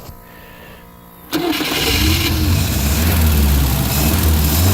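1963 Volvo 544's four-cylinder engine being started: a quiet steady whir for about a second while it cranks, then the engine catches suddenly and runs, its revs rising and falling. This is the car's first start-up on a fresh battery and a little fuel.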